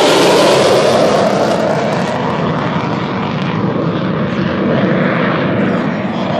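Eurofighter Typhoon's twin EJ200 jet engines roaring loudly in flight. The roar eases slightly after about two seconds as its highest hiss fades.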